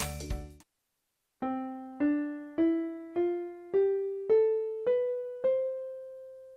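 Casio LK-350 electronic keyboard playing a one-octave C major scale from middle C: eight evenly paced notes stepping upward in a piano-like tone, the last one held and fading away. Just before it, a busier passage cuts off about half a second in.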